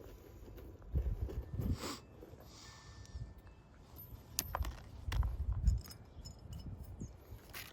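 Irregular knocks and thumps with a few sharp clicks, from hand work on an asphalt-shingle roof.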